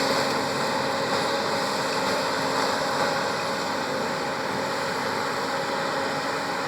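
John Deere tractor's diesel engine running steadily, slowly getting fainter.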